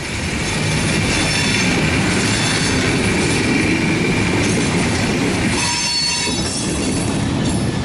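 Railroad soundtrack of a train rolling: a steady rumble and clatter of wheels on rail, with a brief wheel squeal about six seconds in.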